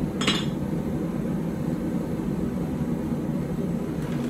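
One last light hammer blow ringing on the hot blade just after the start, then the forge's steady roar.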